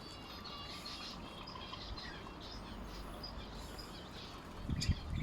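Small cage birds, lovebirds and finches, chirping and twittering with many short high calls over a steady hiss, with a couple of low thumps near the end.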